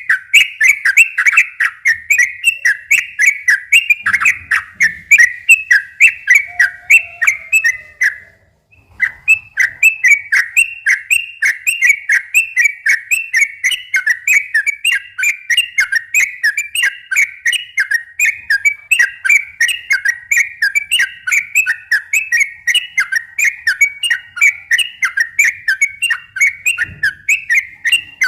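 Yellow-vented bulbul (trucukan) singing a long, fast run of repeated rolling notes, several a second ('ropel' song), broken by a brief silence about eight seconds in.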